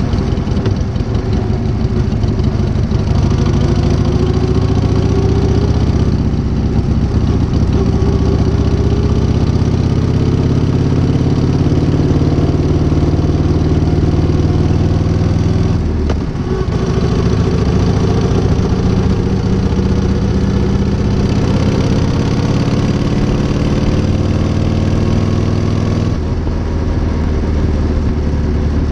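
1978 Harley-Davidson Shovelhead V-twin, fitted with a new S&S carburettor, running. Its note climbs slowly for several seconds, dips briefly about halfway, climbs again and drops back near the end.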